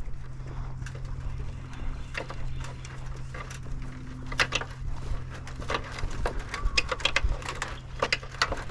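Irregular knocks and clatter of scrap being handled and set down, busiest in the second half, over a steady low hum.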